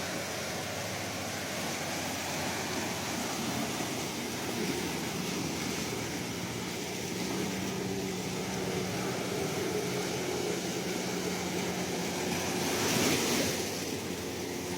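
Ocean surf washing steadily, with one wave surging louder near the end.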